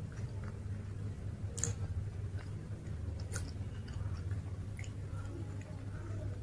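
Close-up chewing of masala dosa, wet mouth sounds with a couple of sharp crisp crackles about one and a half and three and a half seconds in. A low steady hum runs underneath.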